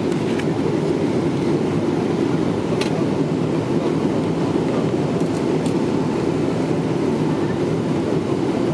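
Steady cabin noise of a Boeing 777-300ER heard from inside the passenger cabin: a low, even rush of its GE90 engines and airflow, with a couple of faint clicks.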